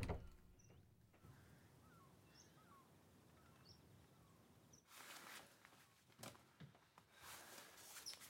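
Near silence: faint outdoor ambience with a few short, distant bird chirps, and a brief soft noise about five seconds in.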